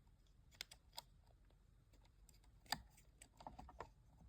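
Faint, scattered clicks and light taps of small plastic toy-aquarium parts being handled, a few single clicks and then a short cluster near the end.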